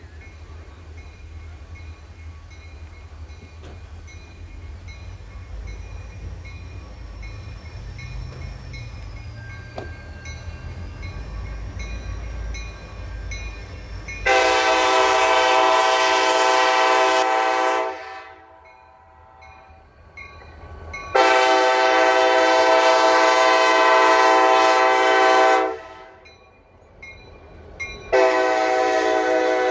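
A diesel locomotive's low engine rumble builds as it approaches. Then its air horn sounds: two long blasts, and a third begins near the end, each a steady chord of several tones.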